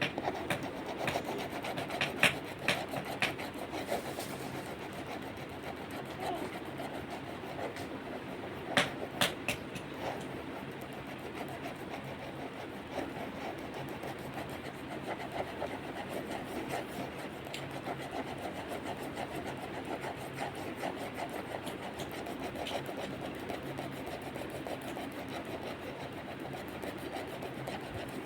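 A pen or pencil tip scratching across paper in continuous drawing strokes, with a few sharp clicks in the first ten seconds.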